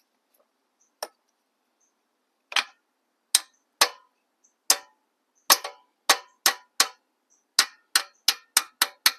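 Hammer striking metal, a series of sharp ringing blows, most likely knocking the rusted exhaust loose. The blows are sparse and uneven at first, then come quicker, about three a second, in the second half.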